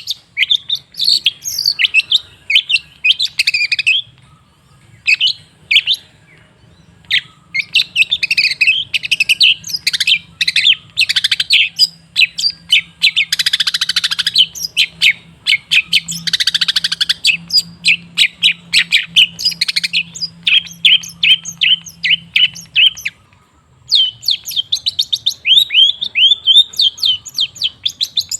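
Long-tailed shrike (cendet) singing a fast, varied chattering song. Two harsh, rasping calls come about halfway through. After a brief pause near the end comes a quick run of repeated downward-sliding notes.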